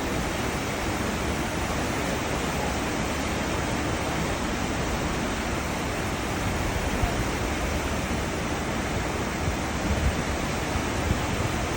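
Cruise ship's wake: churning seawater rushing steadily behind the ship in an even, continuous roar of white water.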